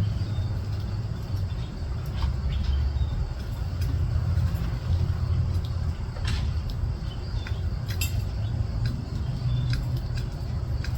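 Outdoor ambience: a steady, uneven low rumble with a few brief high chirps or clicks scattered through it.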